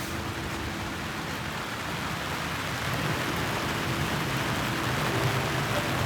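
Steady rain falling in a heavy winter downpour.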